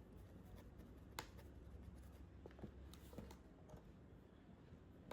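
Very faint, sparse clicks and light scraping of a spoon in a small bowl, mixing baby-bird formula powder into hot water.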